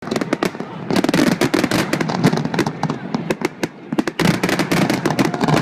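Fireworks display at close range: a dense run of sharp crackling pops and bangs in quick succession, thickest about a second in and again near the end.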